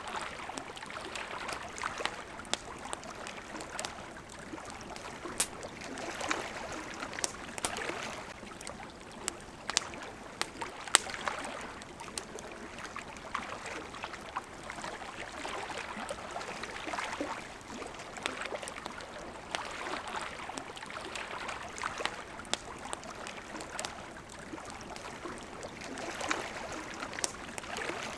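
Water lapping and trickling in gentle swells every couple of seconds, with irregular sharp crackles and pops from a wood campfire.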